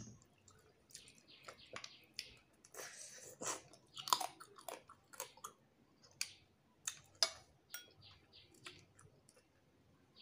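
A person chewing a mouthful of rice and fish, eaten by hand, with irregular wet smacks and clicks of the mouth. The loudest comes about four seconds in.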